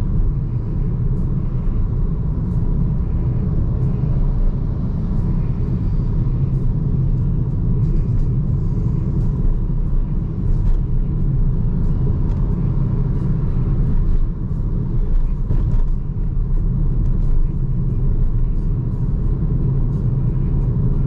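Steady low rumble of tyre and road noise from a BYD Seagull electric car driving on an expressway, with no engine note.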